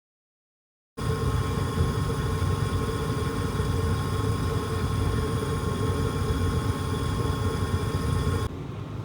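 Suzuki Jimny JA11 on the move: steady engine and drivetrain noise with a low rumble and a thin steady tone over it. It starts abruptly about a second in and drops suddenly near the end.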